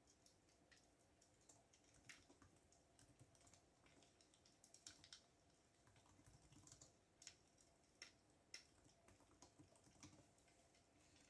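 Computer keyboard typing, faint and irregular: scattered single keystroke clicks, several a second, with short pauses between runs.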